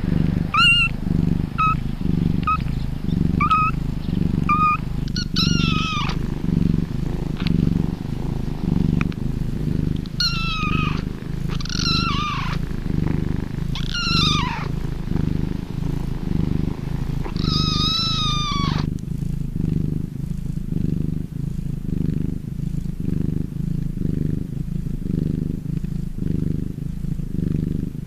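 A cat purring steadily. High-pitched meows sound over the purr: short chirping mews about once a second for the first five seconds, then several longer meows falling in pitch. After about nineteen seconds only the purring goes on.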